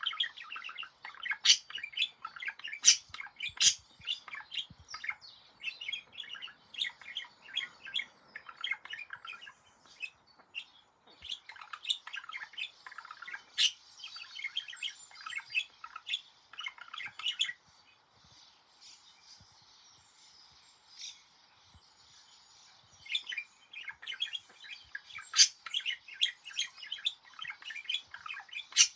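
A budgerigar warbling: a long, fast chatter of short chirps mixed with sharp clicks. It eases off to a faint murmur about two-thirds of the way through, then starts up again.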